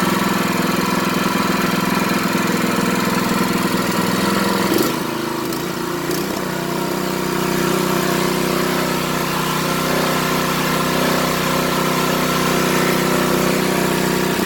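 Predator single-cylinder four-stroke small engine running steadily on a stand during its first run, its note dropping slightly about five seconds in and then holding. It runs smoothly, which the owner calls running great.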